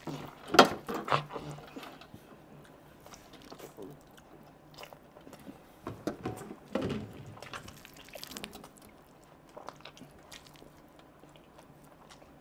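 Close-up mouth sounds of someone eating a big handful of soft Schezwan noodles by hand: chewing, smacking and small wet clicks. There are short hummed or groaned vocal sounds about half a second in and again around six to seven seconds.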